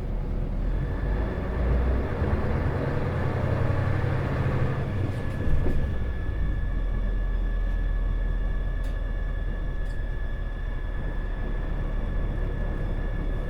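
Isuzu Erga city bus engine under way, working harder with a slowly rising rumble for the first five seconds or so, then settling to a steadier, lighter run. A constant high-pitched whine sits over it, with a few light clicks and rattles.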